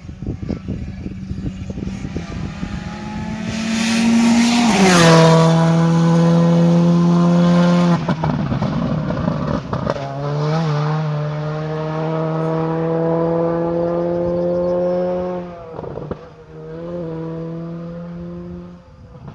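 Rally car passing at speed with its engine held at high revs: the sound builds, peaks about five seconds in and drops in pitch as the car goes by. The revs then stay high with brief lifts around eight and sixteen seconds as it pulls away.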